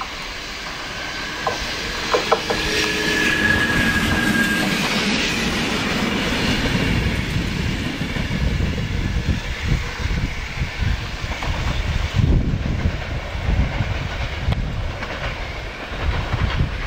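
Renfe electric multiple-unit passenger train approaching and passing on curved track, its wheels clicking over rail joints and points in a rhythmic clickety-clack. The train grows louder over the first few seconds, with a few sharp clicks and a brief high squeal from the wheels on the curve.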